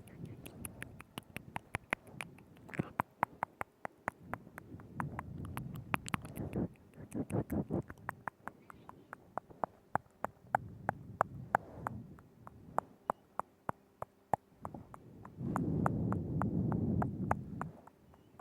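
Close-up ASMR mouth sounds right at a binaural microphone: rapid wet clicks, smacks and pops of the lips and tongue, broken by a few longer, softer, lower stretches, the loudest one near the end.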